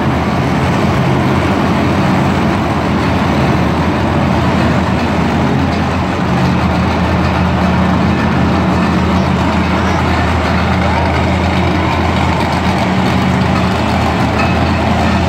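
A heavy vehicle's engine running steadily at a low, even pitch, from the tow rig moving a broken monster truck, with crowd chatter underneath.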